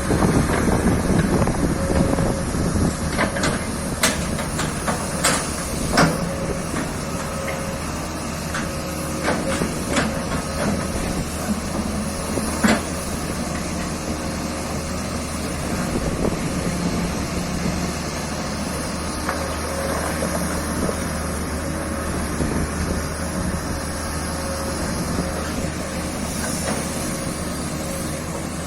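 Hitachi ZX excavator's diesel engine running steadily, with sharp metallic knocks and clanks scattered through, most of them in the first half.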